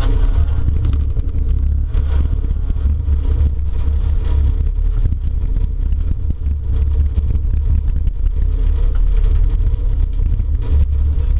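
Demolition derby car's engine running hard, heard from inside the car, with a heavy low rumble and frequent rattles and knocks throughout.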